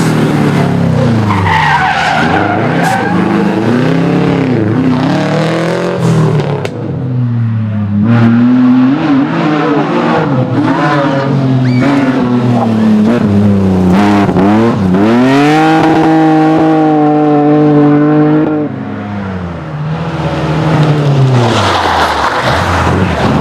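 Rally cars at full attack on a special stage: engines revving hard, with the pitch climbing and dropping through gear changes and lifts, and tyres skidding. About two-thirds of the way through, one engine holds a steady high rev for a few seconds, then falls away.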